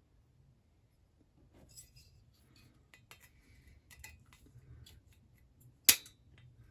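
Faint scattered metallic clicks and ticks of hand work as a band is worked off a stripped-down Husqvarna 346XP chainsaw, with one sharp click near the end.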